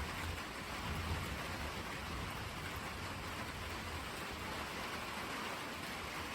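Steady rain falling, with a deep rumble of thunder underneath that dies away a few seconds in.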